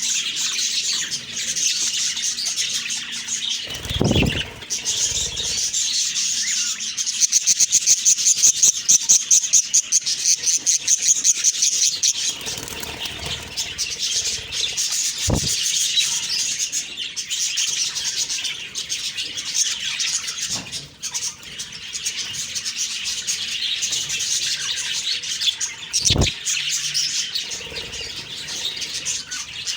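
Budgies chirping and chattering continuously, with a run of loud, quickly repeated calls in the middle and a few dull thumps.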